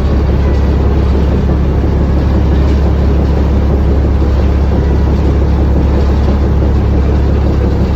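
Ferry engine running with a loud, steady low drone.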